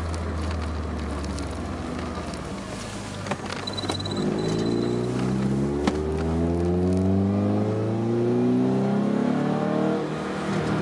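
Peugeot 306 2.0 16v four-cylinder engine through an Ulter exhaust, accelerating: the engine note climbs steadily in pitch, drops at a gear change near the end and starts climbing again. Two short knocks come in the middle.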